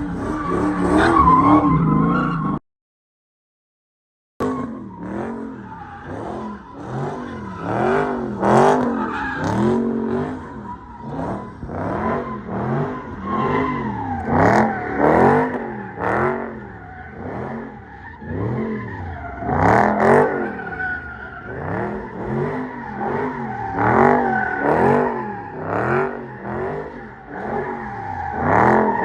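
A car engine revved up and down over and over, roughly once a second, with tyre squeal, as in a burnout or donuts. It follows a brief total cut-out a few seconds in.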